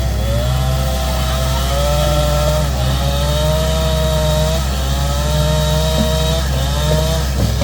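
An engine running steadily, its pitch wavering and dipping every couple of seconds as the load changes.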